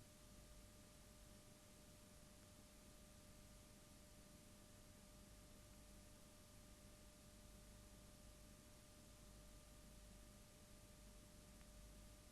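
Near silence: a faint even hiss with a thin, steady faint tone underneath.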